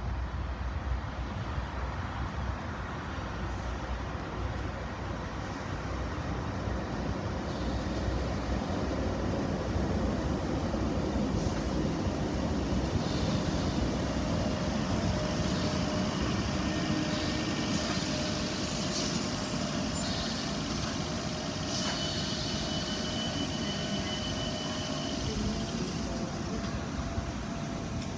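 Tyne and Wear Metro train of two coupled Metrocars running through the station: a rumble that grows louder partway through, with a steady whine of several tones joining it about halfway.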